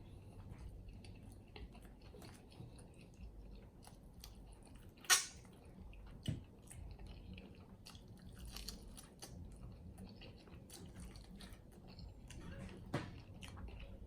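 A person chewing and biting Chinese chicken wings in sweet garlic sauce close to the microphone: scattered wet smacks and small clicks, with one sharp louder click about five seconds in.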